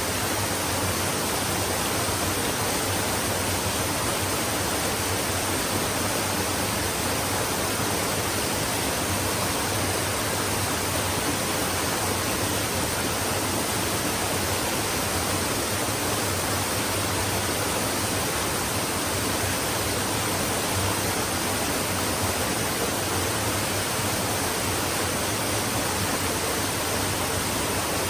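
Stream water flowing steadily, an even rushing noise with no breaks or changes.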